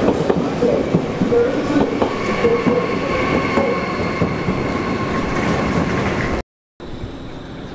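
Train rolling through a station with rapid clacking and knocking from the wheels and a steady whine. The sound cuts out briefly near the end and comes back much quieter.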